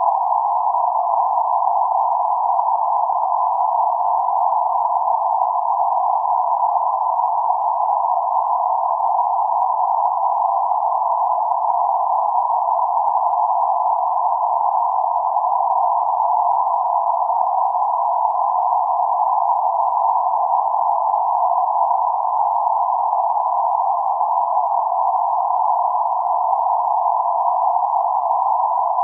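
Synthesized noise filtered to a narrow band centred on 848 Hz: a steady, even, mid-pitched hiss with no bass or treble, unchanging throughout.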